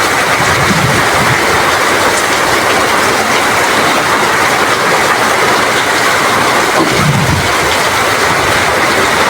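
Heavy rain falling steadily in strong wind, a loud, dense roar, with low rumbling gusts about a second in and again near seven seconds.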